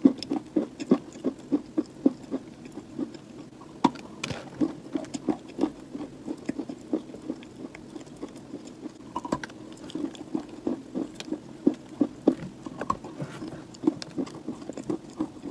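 Close-miked chewing of a mouthful of dry chalky clay: quick, irregular crunches and crackles, a few a second.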